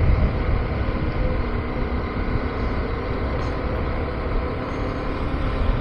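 KTM 390 Adventure's single-cylinder engine running steadily as the motorcycle is ridden, mixed with a rumble of wind noise on the microphone.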